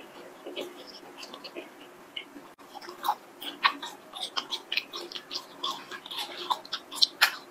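Biting and chewing a long chili-coated spicy snack stick (latiao): a run of small crackly clicks and mouth sounds, sparse at first and busier from a few seconds in, with the loudest bites near the end.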